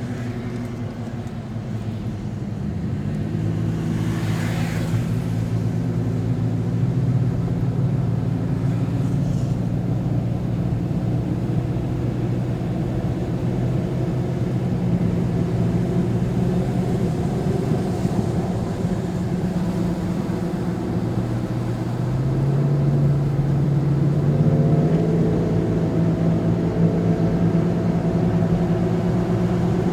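A car's engine and road noise while driving, the engine note stepping up in pitch about two and a half seconds in and again near the end. A brief rushing sound about four seconds in.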